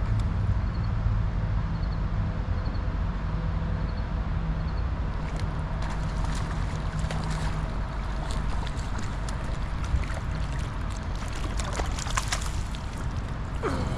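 A motor running with a steady low hum that stops about halfway through, over a constant noisy outdoor rush with scattered small clicks. A faint high chirp repeats several times early on.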